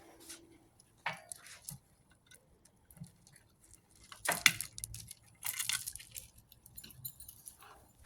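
Small metal pieces jingling and clinking in a few short rattling bursts, the loudest about halfway through.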